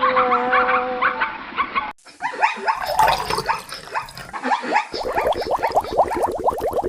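Animal calls. After a cut about two seconds in, a fast run of many short, high, falling calls overlaps into a dense chorus.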